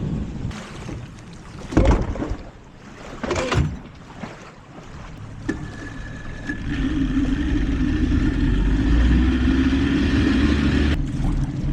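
Outboard motor of an old bass boat being started: two short loud strokes, then about five and a half seconds in it catches and runs steadily, easing off near the end.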